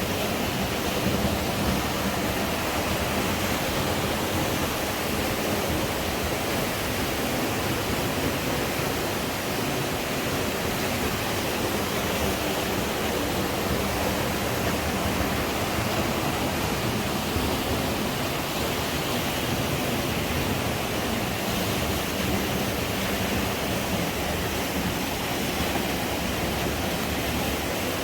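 Steady rush of the Aare river's fast water through its narrow gorge.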